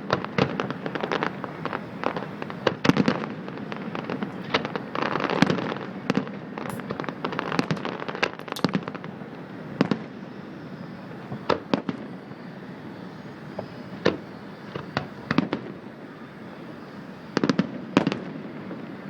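Fireworks display: aerial shells bursting in rapid, overlapping bangs with echoing tails, thinning out about halfway through, then a tight cluster of bangs near the end.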